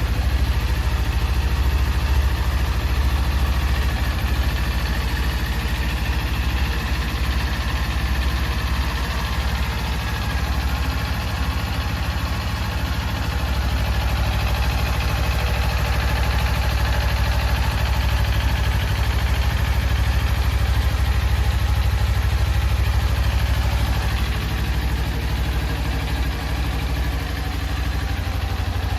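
Kawasaki Ninja 400's parallel-twin engine idling steadily.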